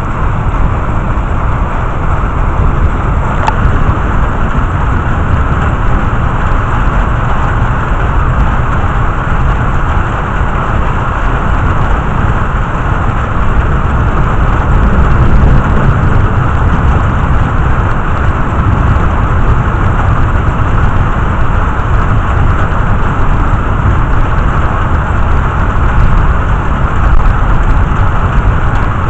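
Heavy thunderstorm rain, a loud steady rushing with a deep low rumble beneath it.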